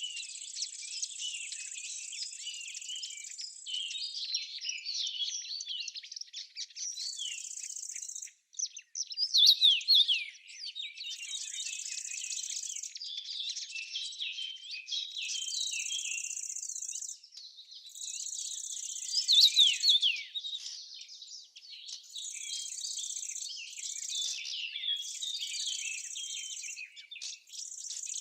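Small songbirds chirping and twittering continuously, in quick short notes. A high, even trill comes in blocks of one to two seconds, about every three seconds, through most of it.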